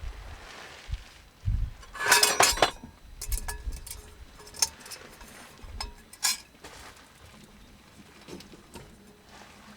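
Metal clinking and knocking as small metal objects are handled: a quick run of clinks about two seconds in, then scattered single clinks, some with a short ring.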